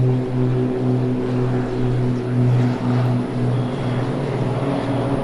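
Cessna 402C's twin piston engines and propellers droning past, with a pulsing beat about three times a second; the drone fades away about three seconds in.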